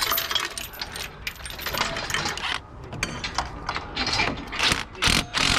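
Irregular metallic clicking and knocking of hand tools and parts being worked on the car, with a ratcheting, mechanism-like character.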